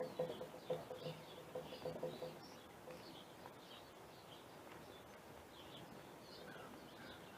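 Small wild birds chirping faintly, with a quicker, lower pulsed call over the first couple of seconds that then fades, leaving scattered high chirps.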